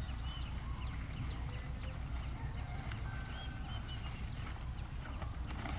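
Birds chirping in many short, quick calls over a steady low rumble.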